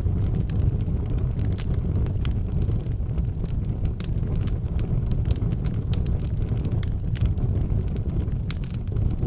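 Wood fire burning in an outdoor fireplace: a steady low rumble of the flames, with frequent small sharp crackles and pops.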